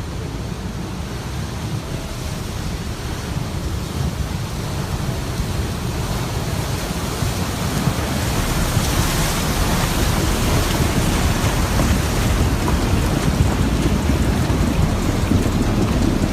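Rushing floodwater of a swollen mountain river, a steady noisy roar that grows gradually louder.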